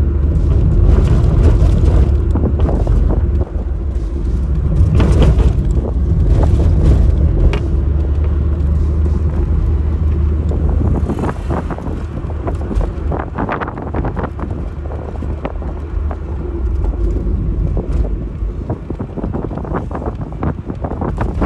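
Car travelling along the road: a steady low rumble of engine and road noise, with scattered short crackles over it.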